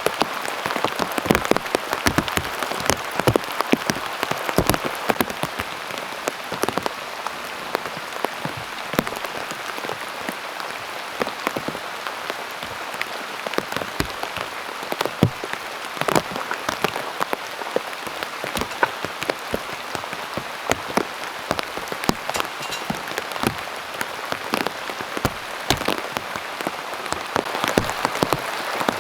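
Heavy autumn downpour: a steady hiss of rain with frequent sharp, irregular drop hits on a surface.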